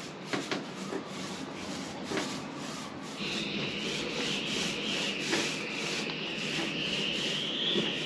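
Steady abrasive rubbing, as of sanding a surface, with a high steady whine joining in about three seconds in.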